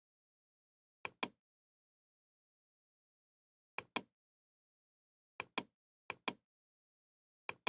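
Five sharp double clicks, spaced unevenly, with dead silence between them.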